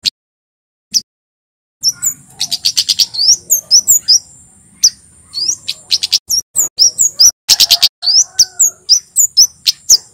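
Male Javan flowerpecker (kemade) singing: after about two seconds of silence, a run of rapid, high, sharp chirps and downward-sweeping notes mixed with quick clusters of ticks, over a thin steady high whistle.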